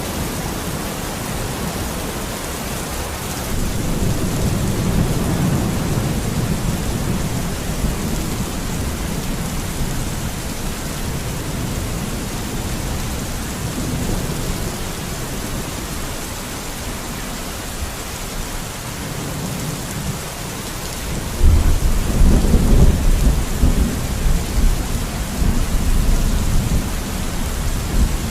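Steady rain falling, an even hiss. A deep low rumble swells up about four seconds in and fades, then a stronger rumble comes in suddenly about two-thirds of the way through and carries on.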